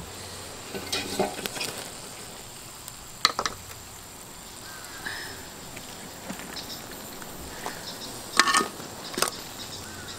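Food sizzling as it fries in a pan, with a few sharp clicks at intervals, including two close together near the end.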